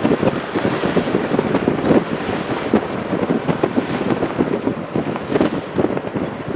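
Steady rain: a dense, continuous patter of drops striking, without letup.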